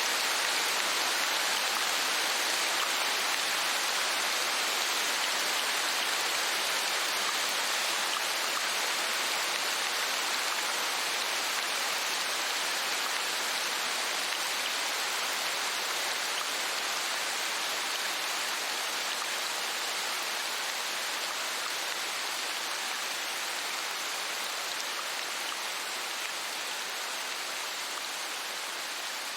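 Rain falling steadily, an even hiss with no separate drops or events, slowly growing a little quieter.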